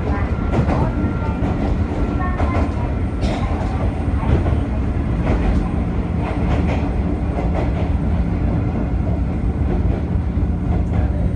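Mizuma Railway electric train running along the line, heard from inside the leading car: a steady low rumble, with irregular clicks as the wheels pass over rail joints.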